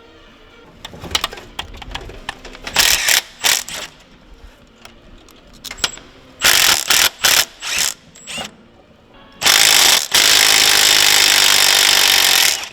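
Air impact wrench hammering in short bursts, then one long run of about three seconds near the end, on a harmonic balancer bolt so tight it will not break loose.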